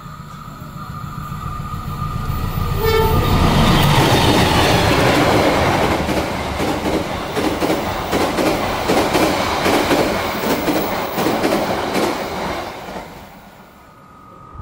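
A diesel-hauled passenger train running through the station at speed. It opens with a short horn blast about three seconds in, and the locomotive's engine swells as it passes. Then the stainless-steel coaches go by with a steady clickety-clack over the rail joints, fading away near the end.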